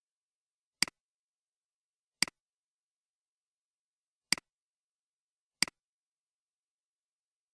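Computer mouse button clicked four times at uneven intervals, each click a quick double tick of press and release.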